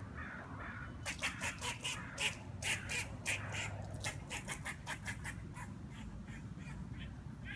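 Squirrel giving a rapid series of short, duck-like quacking calls, about four or five a second, starting about a second in and fading toward the end.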